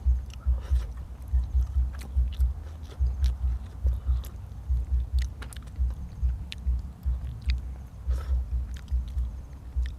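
A person chewing a mouthful of food close to the microphone: steady low jaw thumps about three to four a second, with small wet clicks and smacks.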